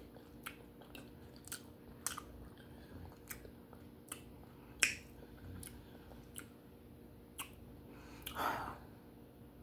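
Close-up chewing of baked duck head, with wet mouth clicks and smacks at irregular intervals, over a faint steady hum.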